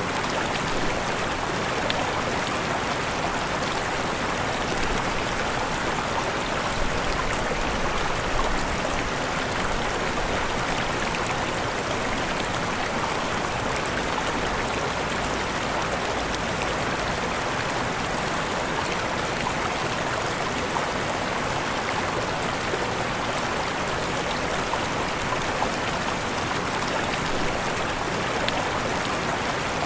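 Steady rush of falling water from a waterfall, an even unbroken noise with no changes.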